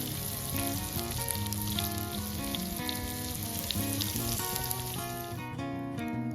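Shiitake mushrooms frying in butter, sizzling steadily, over background music with plucked notes; the sizzling cuts off about five and a half seconds in.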